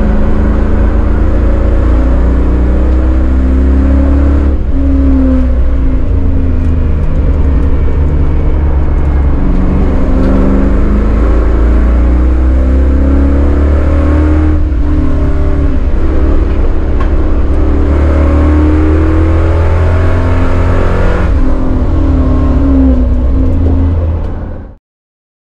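Chevrolet Caprice 9C1's LT1 V8 heard loud from inside the cabin while lapping a road course, its note rising and falling with throttle through the corners. There are brief dips about four, fifteen and twenty-one seconds in, and it cuts off suddenly near the end.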